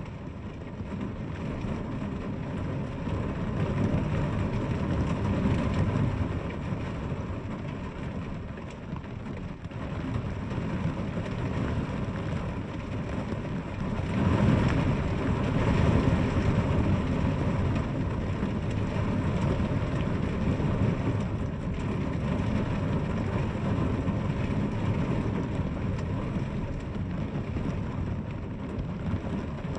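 Steady rain with a dense low rush, swelling louder about four seconds in and again about fourteen seconds in.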